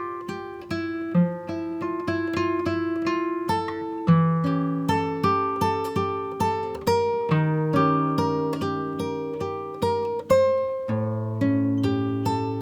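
Background music: acoustic guitar playing plucked notes in a steady, flowing pattern.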